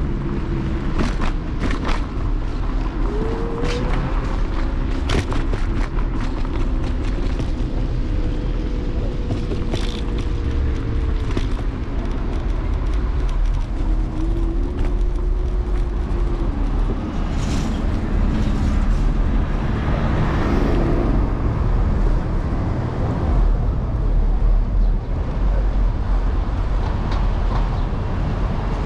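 City street traffic heard from a moving electric scooter: a constant low rumble of wind and road noise, with passing vehicles and scattered knocks and clicks. A steady hum comes in about three seconds in and holds for several seconds, and a shorter one follows later.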